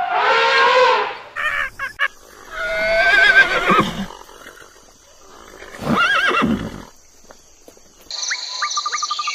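Horses neighing: a long wavering whinny about three seconds in and a second, shorter one around six seconds. It follows the tail of an elephant's trumpet in the first second, and near the end a steady, rapid insect chirping starts.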